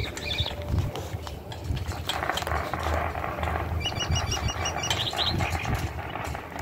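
Low rumbling and scattered knocks throughout, with a quick run of about seven high, evenly spaced chirps from a bird about four seconds in, then a brief flutter of higher notes.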